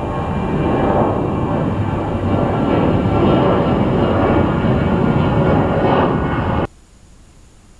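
Jet airliner engines at close range, a loud steady rumble that swells a little over several seconds. It cuts off abruptly near the end, leaving only faint background noise.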